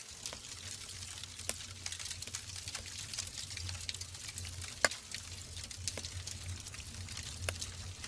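Wood fire burning in a fireplace: a steady hiss with irregular sharp crackles and pops from the burning logs, the loudest pop about five seconds in.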